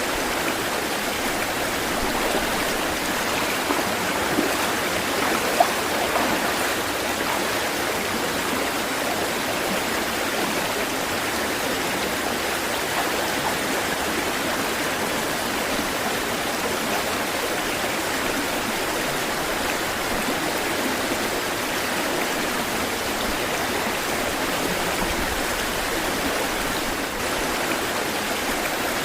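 Flowing water in a stream, a steady, even rush of water over rocks with no surging, and a brief sharper splash about five and a half seconds in.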